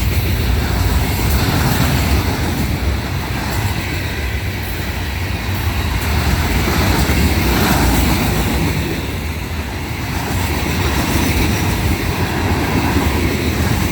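Florida East Coast Railway rock train rolling past, a steady, heavy low rumble of wheels on the rails.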